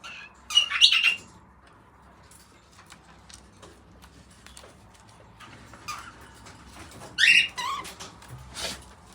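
Baby cockatiel giving short raspy calls in two loud bouts, one about half a second in and another around seven seconds in, with a few smaller calls after it and faint clicks in between.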